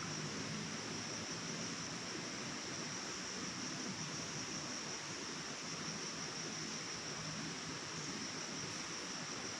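Steady forest nature ambience: an even, unbroken rushing noise with a constant high-pitched whine held above it.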